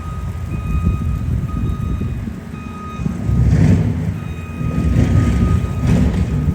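A vehicle's reversing alarm beeping about once a second over a low engine and traffic rumble. Two louder whooshing surges come about halfway through and near the end.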